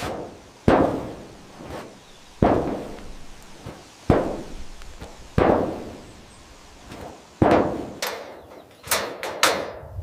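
Five heavy blows of a tool striking, about one and a half to two seconds apart, each trailing off in a short echo, followed by several quicker, sharper knocks near the end.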